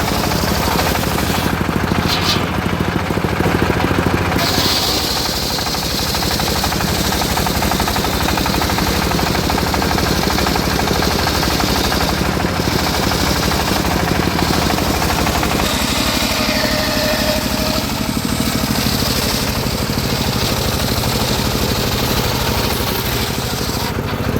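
Homemade circular sawmill rig running under load as its blade saws through teak, a loud, steady mechanical din with a hissing cut that shifts in strength as the cut goes on.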